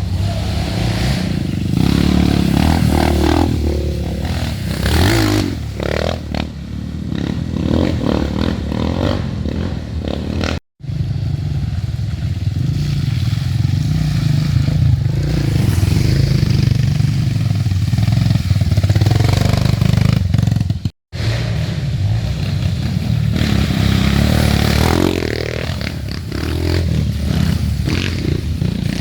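Off-road dirt bike engines revving, rising and falling in pitch, in mud. The sound cuts off abruptly twice where separate clips are joined.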